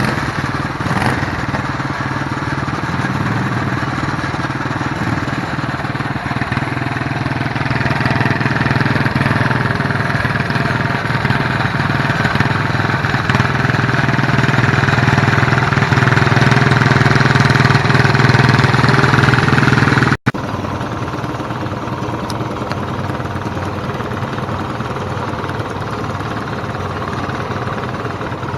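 Garden tractor engine running hard at high revs, growing steadily louder for about twenty seconds. It breaks off abruptly and gives way to a quieter, steady engine sound.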